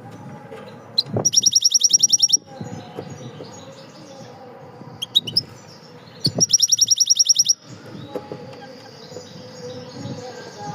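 A songbird singing: twice, a few short high notes lead into a loud, rapid trill of about a dozen notes a second, lasting about a second, over faint steady background noise.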